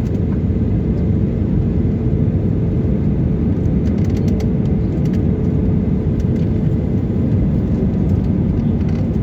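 Airliner landing noise: a loud, steady, low rumble with a faint constant hum and a few light ticks or rattles.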